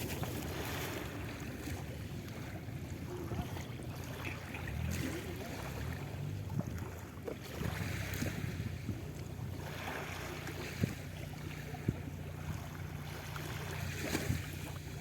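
A motor running steadily with a low drone, under a noisy outdoor background of wind on the microphone and a few small clicks.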